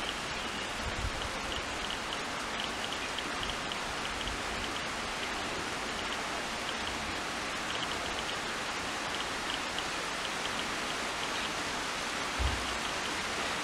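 Steady rain falling on foliage, an even hiss, with clusters of faint, short high chirps now and then and a soft low thump near the end.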